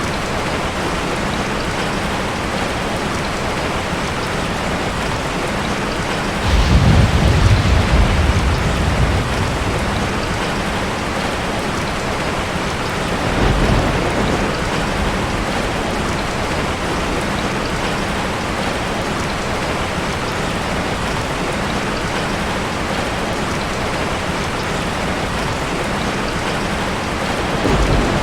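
Steady rain falling, with deep thunder rumbling through it: the longest and loudest roll comes about six seconds in and lasts a couple of seconds, a shorter one about halfway through, and another just before the end.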